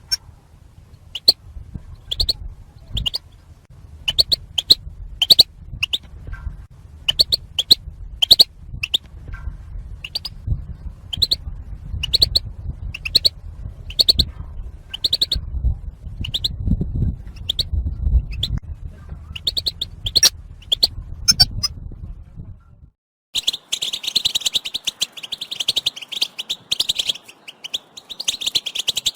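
European goldfinch call notes: short, sharp chirps repeated at irregular intervals over a low rumble. About three quarters of the way through there is an abrupt cut to a denser, fast chattering of several goldfinches calling together.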